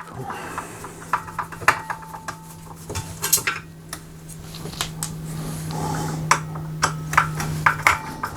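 Screwdriver taking screws out of a laminator's top plate: a run of small, irregular metal clicks and clinks over a steady low hum.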